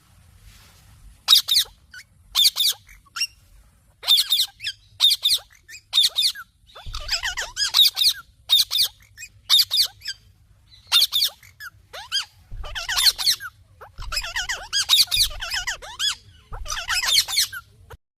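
A parrot chirping in repeated bursts of quick, high-pitched chirps, with short pauses between bursts.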